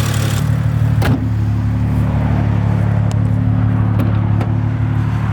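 BMW 135i's turbocharged N55 inline-six idling steadily, with a single sharp click about a second in. The engine is running smoothly with no odd noises after a new drive belt, pulleys and oil filter housing gasket.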